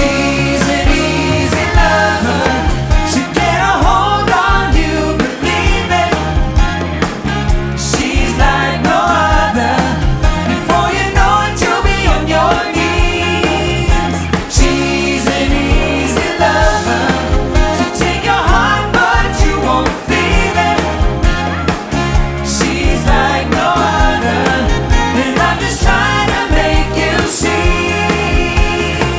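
A band playing pop music with a steady beat, with a singer over drums, bass and keyboards.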